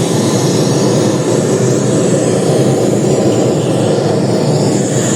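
Steady, loud rumbling noise with no music or speech.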